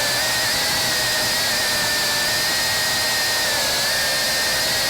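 Quadcopter drone's electric motors and propellers giving a steady high whine, its pitch wavering slightly as the motors adjust.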